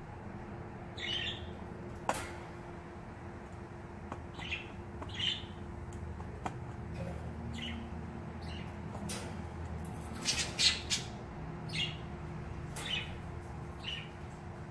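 A bird calling over and over in short high calls every second or so, with a louder run of calls about ten seconds in. A single click sounds about two seconds in.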